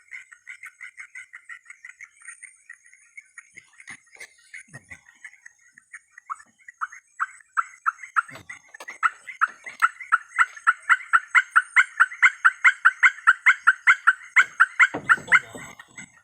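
An animal calling in a long, rapid series of short, evenly repeated notes, about five a second. The calls start faint, swell to loud about halfway through and fade near the end, over a faint high insect-like whine. A low thump comes near the end.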